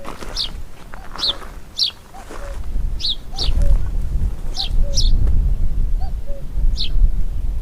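Forest birdsong: short high chirps repeated over and over, one or two a second, with soft low notes between them. A steady low rumble runs beneath.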